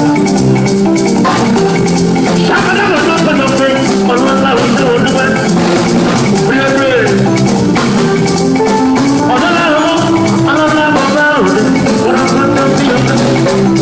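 Live band playing upbeat music, with fast steady percussion over sustained bass notes and a lead melody line with bending notes.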